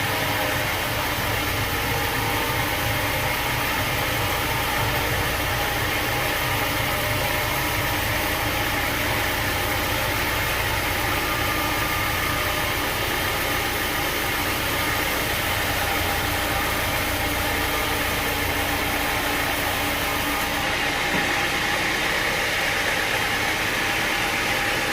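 Sawmill machinery running at a steady, even drone, with an engine-like hum underneath.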